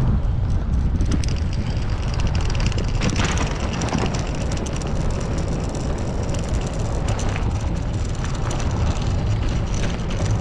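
Motorcycle running at road speed with wind rushing over the microphone, a steady low rumble with scattered knocks from a rough road surface.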